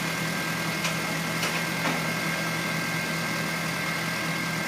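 A car engine idling: a steady hum with a constant high whine, and a few faint clicks.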